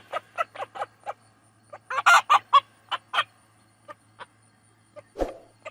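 Chickens clucking: a quick run of short clucks at about five or six a second, then a louder cluster of calls about two seconds in, thinning to a few scattered clucks. A single thump near the end.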